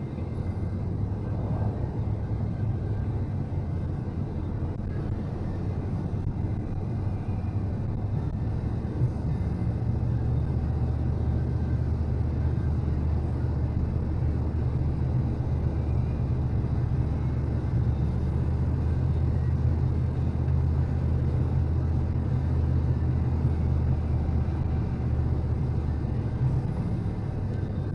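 Steady low drone of a vehicle heard from inside the cab as it drives, engine and road noise, growing slightly louder about ten seconds in.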